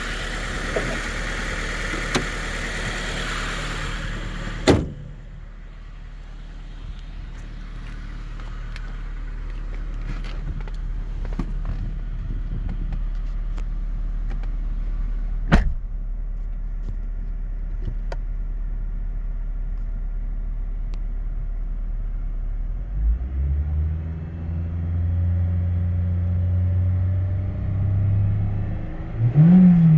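2002 Acura RSX Type-S 2.0-litre DOHC i-VTEC four-cylinder idling steadily, with a sharp click twice. The engine note grows fuller late on, and it ends with a quick rev that rises and falls.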